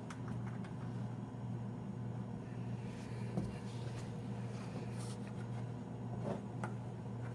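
Steady low hum, with a few faint light clicks and rustles of small screws being started by hand into a refrigerator's cardboard back panel.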